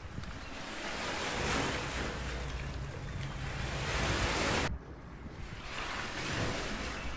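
Small ocean waves washing onto the beach, the surf hiss swelling and easing every couple of seconds, with wind rumbling on the microphone. About two-thirds of the way through, the hiss cuts off suddenly and then builds again.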